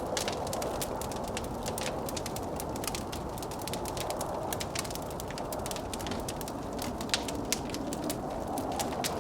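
Log fire crackling with frequent small pops, over the steady rush of blizzard wind. Two louder pops come about seven seconds in.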